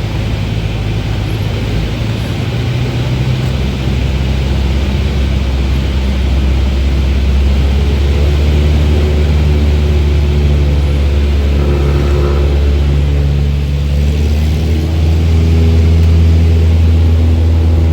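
Small propeller airplane's engine and propeller running with a steady drone, getting a little louder about four seconds in and again near the end.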